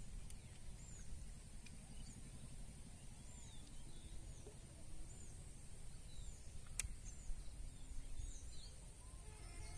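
Outdoor ambience of small birds chirping, short high down-curving notes repeated every half second or so, over a low steady rumble and a faint high hiss. A single sharp click about seven seconds in.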